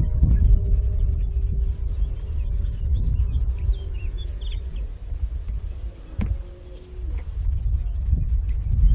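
Wind buffeting the microphone with a gusting low rumble, under a steady high-pitched insect-like drone and a few faint bird chirps.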